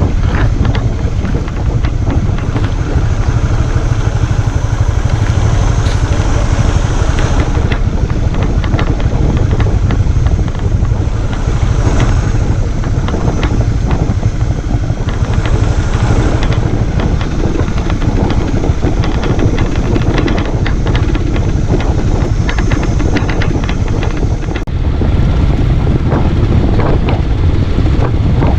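Motorcycle running under way, heard with heavy wind noise on the microphone and scattered knocks and rattles along the ride.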